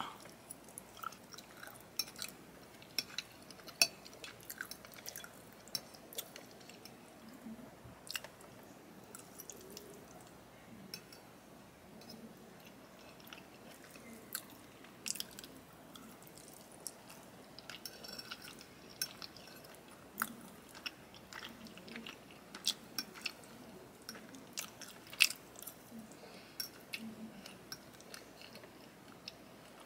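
Close-miked chewing of chicken alfredo, with scattered short wet mouth clicks and the occasional tap of a metal fork against the plate.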